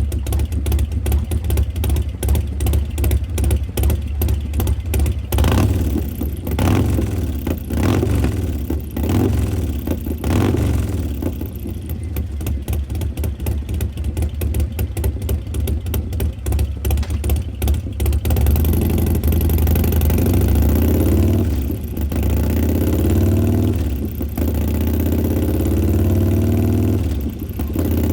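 Harley-Davidson Street Glide Special's Milwaukee-Eight V-twin, fitted with an S&S 475 cam, Performance Machine Super Gas air cleaner and Bassani stainless 2-into-1 exhaust, idling with a pulsing beat just after start-up. It is blipped several times in the first half, then held at higher revs from about two-thirds through.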